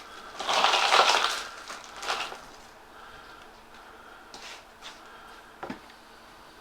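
Crackling, rustling handling noise as a whole processed chicken is picked up and set on a kitchen scale, loudest about a second in, with a shorter rustle after two seconds and a few light knocks near the end.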